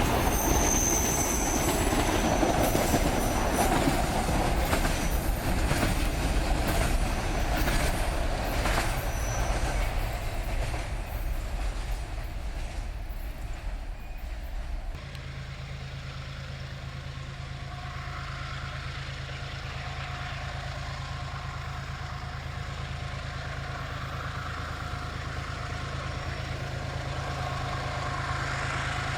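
Freight train running past, its wheels clattering over the rails with a brief high wheel squeal about a second in. About halfway through, the sound cuts abruptly to a quieter, steady low engine hum.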